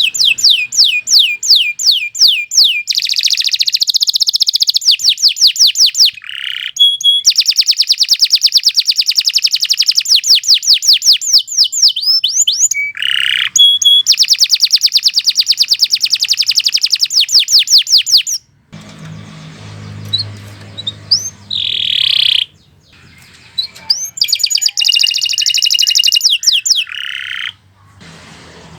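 Domestic canary singing long, loud trills of rapid repeated notes, broken by short pauses and a few sweeping whistled notes.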